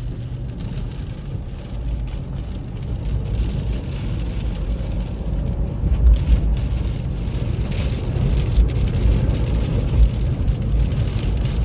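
Strong storm wind gusts buffeting a truck in rain, heard from inside the cab: a low rumble that builds, with the strongest gusts about six and ten seconds in.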